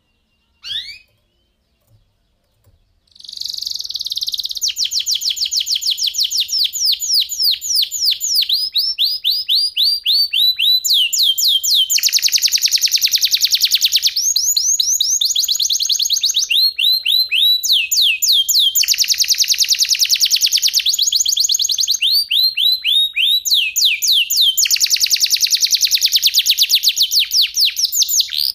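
Canary singing: a single short rising chirp, then from about three seconds in a long unbroken song of rapid repeated high notes that alternates with stretches of very fast, dense rolling trills.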